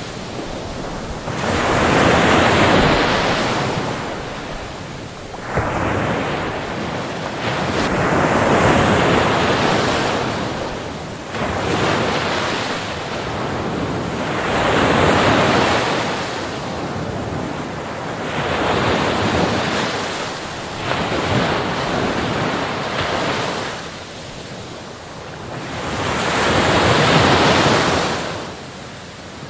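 Ocean waves breaking on a beach, each one surging in with a rush and then washing back, about five times, a new wave every five or six seconds.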